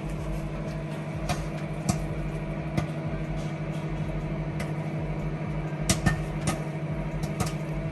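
Microwave oven running with a steady hum, with scattered sharp pops, about eight, as the popcorn kernels in the microwave popcorn bag begin to burst.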